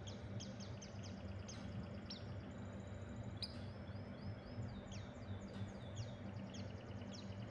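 A pleci dakun white-eye calling softly: short, high, falling chirps repeated irregularly, with a brief run of thin whistled notes about three and a half seconds in. A steady low hum lies underneath.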